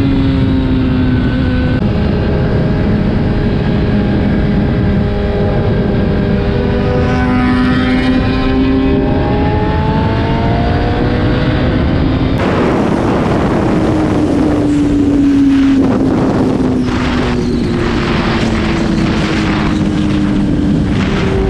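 Motorcycle engine while riding, its pitch rising and falling with throttle and gear changes, with wind rushing over the microphone. About halfway through the sound cuts abruptly to another ride, where gusts of wind buffeting the microphone are stronger.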